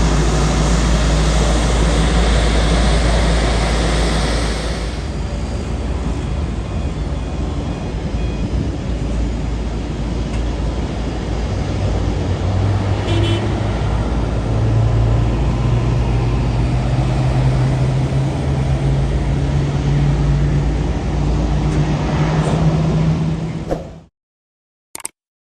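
Jet airliner engines running loudly close by, a steady rumble with a low hum that rises slightly in pitch in the second half, cutting off abruptly about 24 seconds in.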